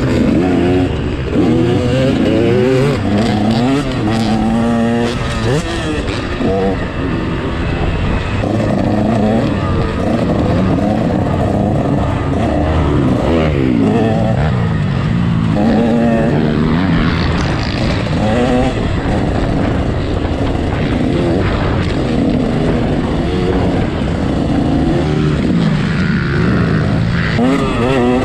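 KTM 150 two-stroke motocross bike's engine revving up and falling back over and over while being ridden, its pitch climbing and dropping every second or two.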